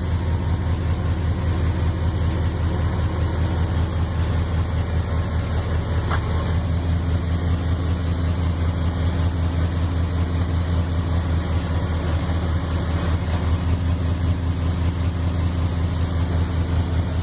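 Vehicle engine idling steadily through its exhaust, a low, even rumble with no revving.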